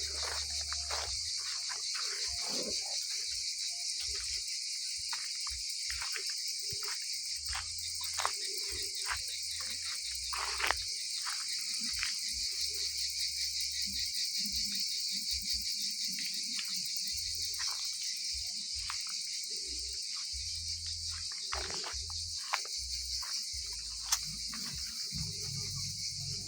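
A steady high-pitched chorus of insects. Scattered short clicks and intermittent low rumbles run under it.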